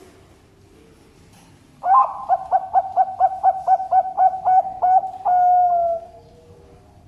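Zebra dove (perkutut) singing. About two seconds in, it gives a rapid run of a dozen or so short cooing notes, some five a second, then ends on one longer drawn-out note that falls slightly in pitch.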